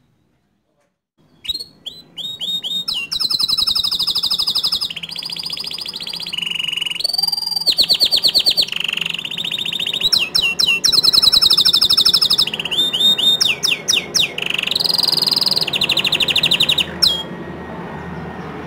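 Bottle-green canary singing a long song of fast trills and rolling phrases, beginning about a second and a half in and breaking off shortly before the end.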